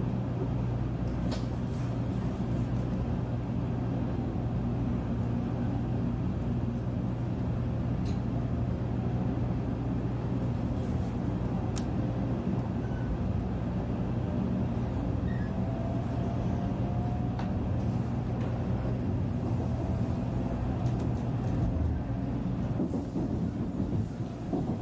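Shinkansen passenger car heard from inside while pulling out of a station: a steady low hum and rumble of the running train, with a few sharp clicks.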